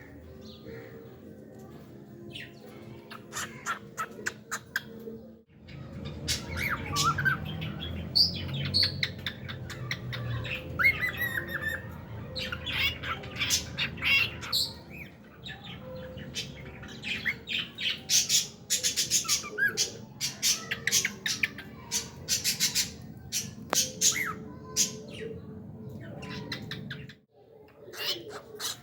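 Cockatiel chirping and squawking: short sharp calls in quick runs, mixed with rising whistled notes.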